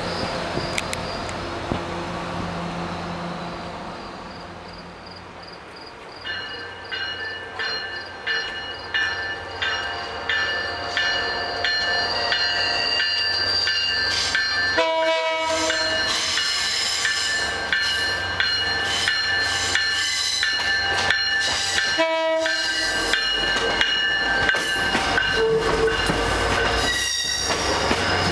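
MBTA commuter train's wheels clacking rhythmically over rail joints, the clacks growing louder as it nears. Steady high-pitched flange squeal rises over them as the bilevel coaches roll through a curve.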